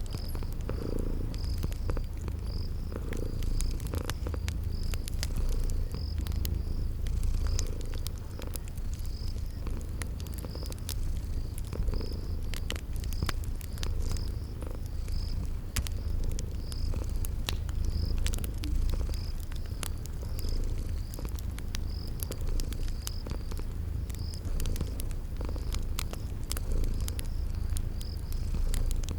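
A cat purring steadily, a low rumble that swells with each breath, over the scattered pops of a crackling wood fire. A cricket chirps at an even pace, about one to two chirps a second.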